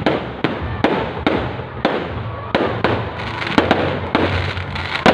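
Fireworks going off in a rapid run of sharp bangs, about two or three a second, with a noisy crackle between them.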